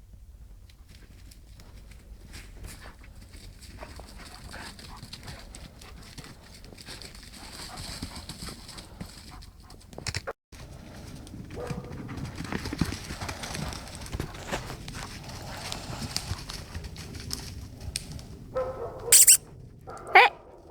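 Dogs playing and running about on the forest floor, their paws pattering and rustling through leaf litter, with a brief break in the sound about halfway. Near the end, three loud short yelps.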